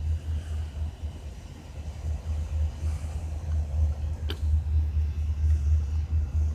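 Wind buffeting a phone microphone: a low, gusting rumble that surges unevenly, with a single short click about four seconds in.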